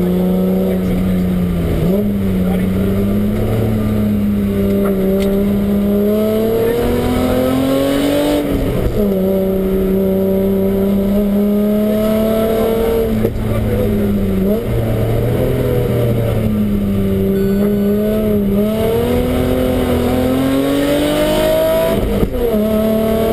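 BMW rally car engine heard from inside the cabin, running hard along the stage: the revs hold steady for stretches, climb, and drop sharply at an upshift about nine seconds in and again near the end, over steady road and wind noise.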